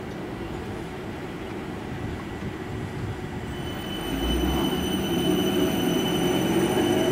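South Western Railway electric multiple unit at a station platform, running with a steady rumble. A few seconds in it grows louder, with a steady high whine and a motor note that rises in pitch as the train gathers speed.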